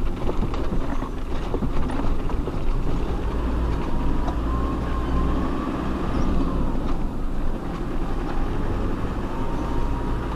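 Off-road 4x4 driving slowly over a rough mountain track: a steady low engine and drivetrain rumble with a few faint knocks. A thin, wavering whine rises in about a third of the way through.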